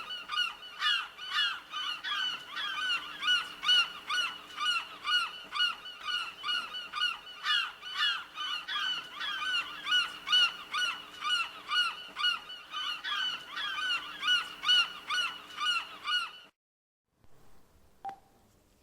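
Gulls calling: a long run of rapid repeated calls, about two or three a second, that stops about sixteen seconds in.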